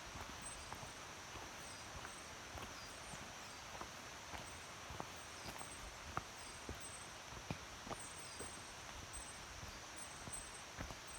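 Mountain stream babbling over rocks as a steady, faint rush, with scattered small ticks. A high, pulsing insect trill and short falling bird whistles recur over it.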